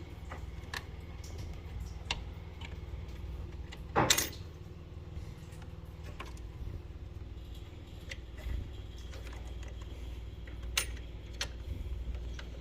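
Small metallic clicks and clinks of hand tools and boiler parts being handled during a flow-turbine change on a combi boiler, with one sharp knock about four seconds in, over a low steady hum.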